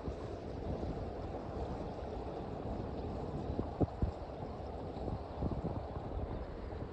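Wind buffeting the microphone: a steady low rumble with short sharper gusts, the strongest a little under four seconds in.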